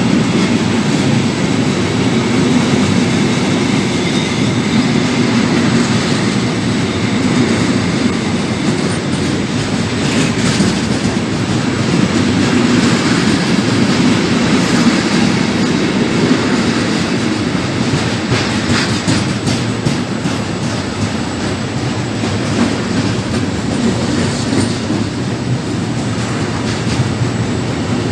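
Freight train rolling past, a steady rumble of wagons on the rails with wheels clacking over the rail joints.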